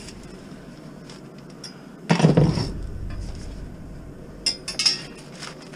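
Scrap items in a curbside junk pile being shifted by hand: one loud clattering knock about two seconds in, then a quick run of sharp metallic clinks near the end.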